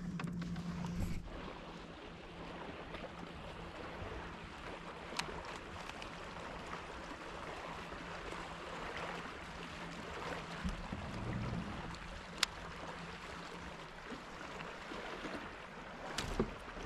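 Water sloshing and lapping against a fishing kayak's hull, with a few sharp knocks on the boat.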